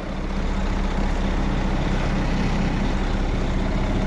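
Mercedes diesel engine of a 2005 Sterling A9500 truck idling steadily, heard from inside the cab. Over it is an even rush of air that swells up over the first second and then holds: the cab's air-conditioning blower running.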